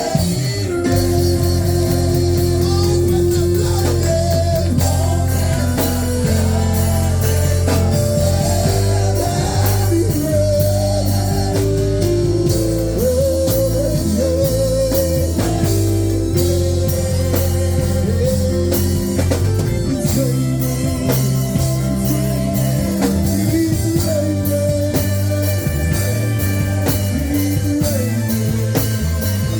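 Live worship music: a band with electric guitar, bass and drums playing steadily, with a sung melody over it.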